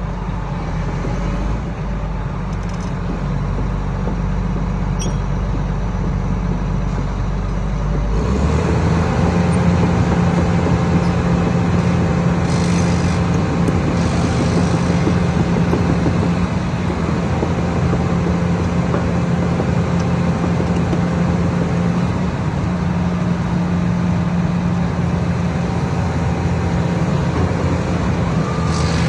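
Hyundai 495LVS excavator's diesel engine running steadily. About eight seconds in, it steps up to a higher engine speed, a little louder, and holds there.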